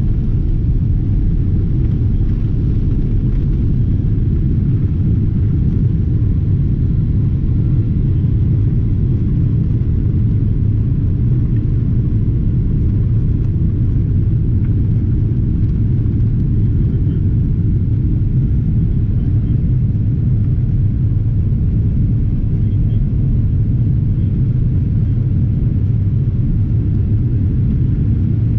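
Steady low rumble in the cabin of a Boeing 777-300ER climbing after takeoff: the noise of its GE90 engines and the air rushing past the fuselage.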